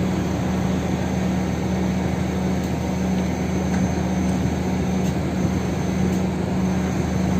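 Heavy diesel truck engine running steadily with an even drone and a strong low hum.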